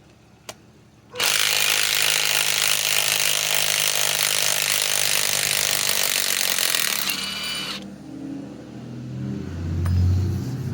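Bosch GDS18V-330C mid-torque cordless impact wrench hammering steadily for about six seconds as it backs a 5-inch lag screw out of wood. It starts about a second in and cuts off suddenly.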